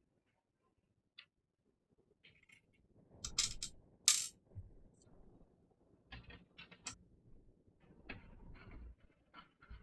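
Clicks, taps and light clatter of small hard parts and tools being handled while a graphics card is taken apart, with a cluster of clicks a little after three seconds, the loudest, sharpest click at about four seconds, and scattered lighter taps through the second half.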